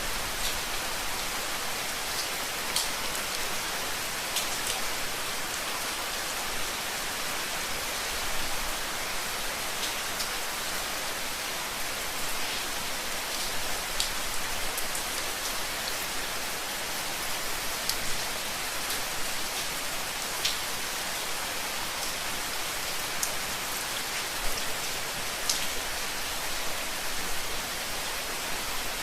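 Steady rain, a continuous even hiss with scattered individual drops ticking on a surface.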